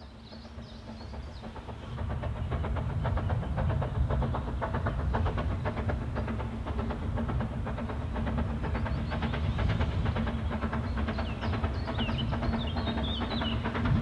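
Narrow-gauge steam train running, a rapid, even clatter of beats that fades in over the first two seconds and then holds steady. Birds chirp briefly at the start and again near the end.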